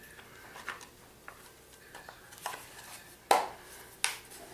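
Hard clacks and knocks of objects being handled and set down on a workbench: a few light clicks, then two louder knocks about three and four seconds in. The orbital sander is not running.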